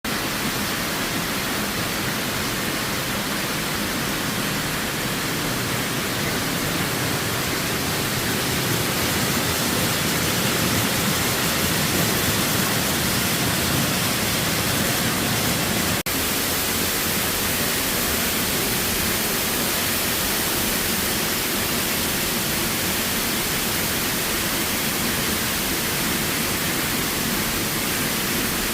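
Waterfall rushing steadily: an even, unbroken wash of falling-water noise, with a momentary dip about sixteen seconds in.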